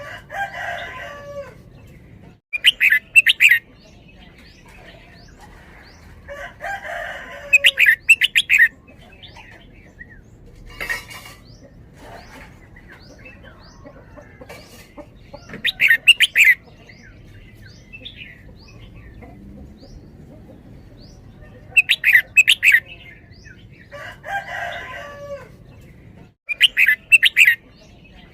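Red-whiskered bulbul singing loud, short whistled song phrases about every five to six seconds, each phrase given as a quick double, with softer chirps of other birds in between.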